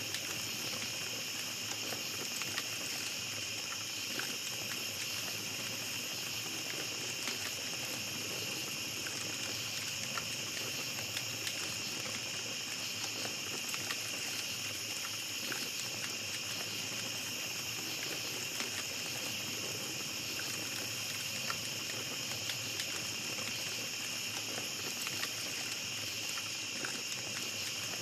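Steady chorus of night insects in a forest, with a small campfire crackling in scattered soft pops.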